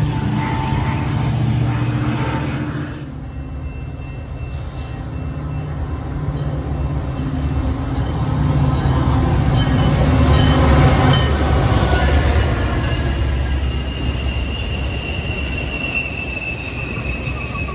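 Metra commuter train led by an EMD F40-series diesel locomotive approaching and passing: a low diesel engine rumble builds to its loudest about two-thirds of the way in, then the bilevel coaches roll by with a high wheel squeal near the end.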